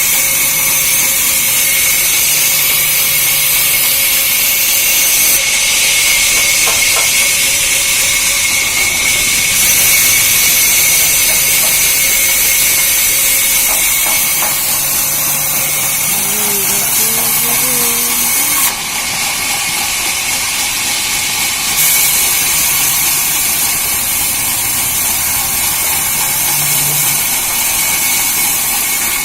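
Sawmill saw running steadily with a loud high hiss and a thin steady whine. The hiss changes level abruptly a few times.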